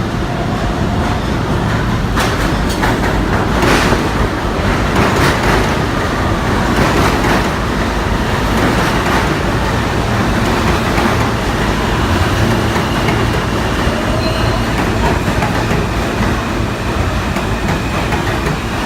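New York City Subway train running on the track, a loud steady rumble of wheels on rails with a cluster of sharp clicks about two to five seconds in.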